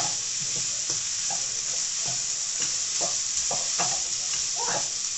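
Food sizzling and frying in a pan on the hob, a steady hiss with a few faint short knocks and scrapes from stirring.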